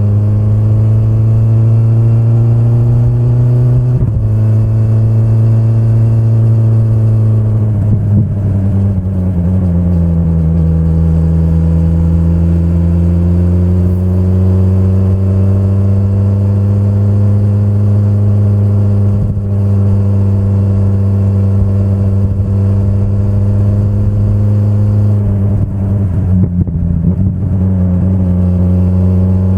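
2025 BMW S1000RR's inline-four engine running under way at fairly steady revs. The pitch steps suddenly about four seconds in, sags around eight seconds, then climbs slowly, with a brief dip again near the end.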